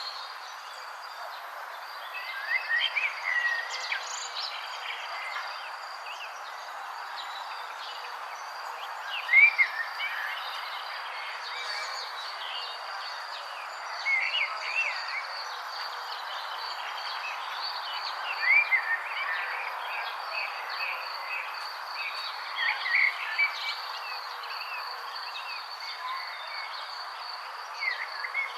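A songbird sings a short chirping phrase about every four to five seconds, over a steady high-pitched trill and a constant background hiss.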